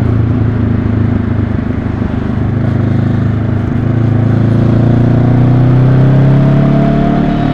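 2022 Honda CB500X's 471 cc parallel-twin engine running on the road. The revs dip slightly, then climb steadily for several seconds before falling away near the end.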